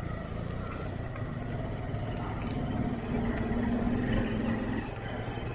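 Motorcycle engine running at low revs on a steep off-road descent, with a louder, steadier note for about two seconds from a little past halfway in.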